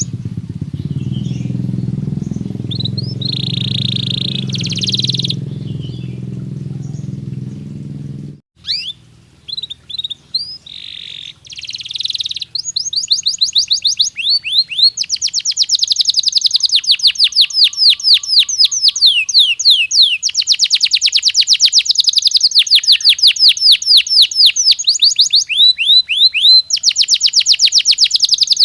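Canary singing: scattered chirps and short phrases at first, then, from about halfway through, long fast trills of rapidly repeated high notes. A low steady hum runs under the first third and cuts off suddenly.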